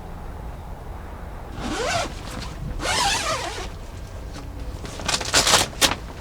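A zipper pulled in two quick strokes, then a short run of clicks and rattles near the end.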